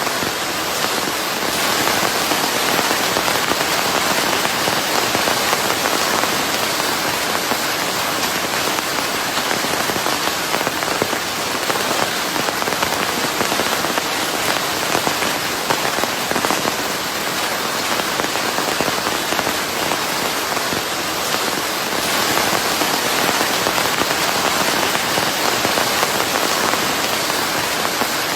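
Steady heavy rain falling on a surface, a dense even patter with fine crackle of individual drops, blended with white noise.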